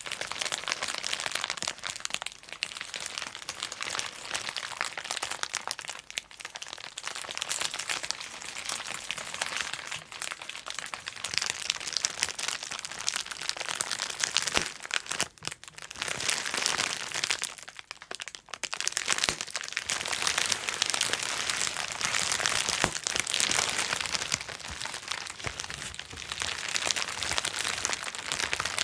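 Plastic bubble wrap being popped and crinkled: a dense run of sharp pops amid the crackle of plastic handled continuously, with brief lulls about halfway through.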